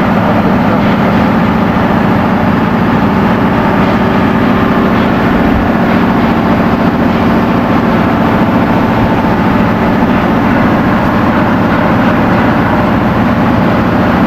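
Ship's engine-room machinery, diesel engines running: a loud, steady drone that does not change.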